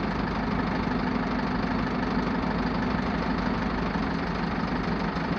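Engine of heavy farm machinery idling steadily, an even unchanging drone.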